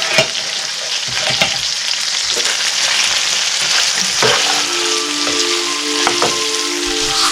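Food sizzling in a pan on the stove, with a few sharp clicks of a utensil stirring it. About four seconds in, a steady tone of several pitches joins the sizzle.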